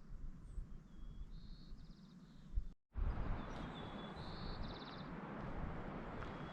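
A songbird repeating the same short song about every three seconds: a thin whistled note, a higher note, then a fast trill. Under it runs a steady hiss of background noise, which cuts out briefly near the middle and comes back louder.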